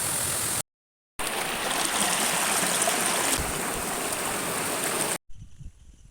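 Rushing water of a small waterfall: a steady, loud rush, broken by a brief silent cut about half a second in and ending abruptly about five seconds in.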